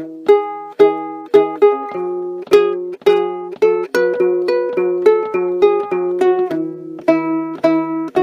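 Ukulele playing an instrumental passage: a steady run of plucked notes, several a second, over a held low bass line that changes note about once a second.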